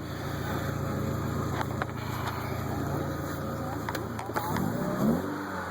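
Volkswagen Jetta's 2.0-litre eight-valve four-cylinder idling steadily through an aftermarket OBX cat-back exhaust with a low tone, then a quick throttle blip about four and a half seconds in, the pitch rising and falling back.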